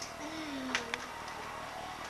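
A faint short voice sound, falling in pitch, in the first second, with a couple of light clicks over steady tape hiss.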